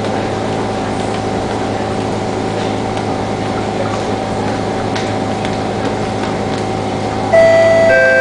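Steady hum inside a stationary SMRT C151 train carriage standing with its doors open. About seven seconds in, the louder door-closing chime starts, a higher tone then a lower one, warning that the doors are about to shut.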